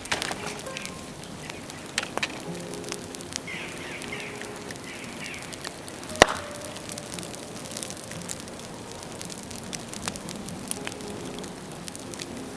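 Dead bamboo crackling and popping as it burns in a bonfire: irregular sharp cracks, with one loud pop about six seconds in.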